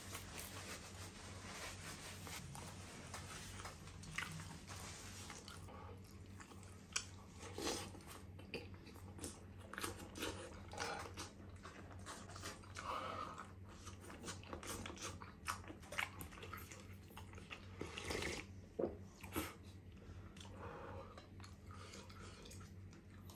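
Close-miked mouth sounds of a person chewing a toasted ham sandwich: irregular crisp crunches of the toast and wet mouth clicks, over a faint steady hum.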